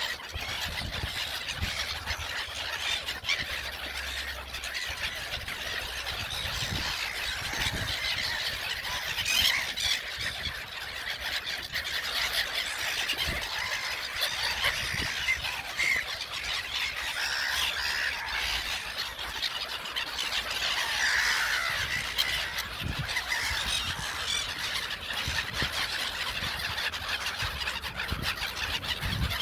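A flock of gulls calling continuously, many shrill cries overlapping into a steady din.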